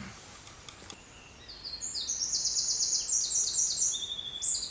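A songbird singing a long, high-pitched song of rapid trills that jump between pitches, starting about a second and a half in.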